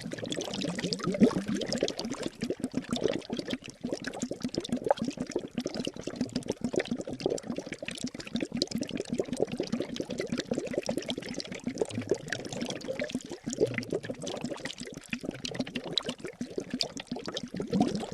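Water boiling hard in a cauldron: continuous, dense bubbling with many bubbles popping, steady throughout.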